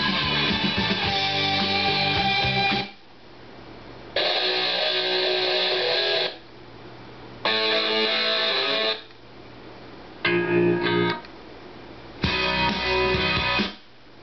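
Rock music with electric guitar played back from a Denon DCD-1300 CD player, in five snatches of one to three seconds, each cut off abruptly with a short pause before the next starts: the player is skipping from track to track.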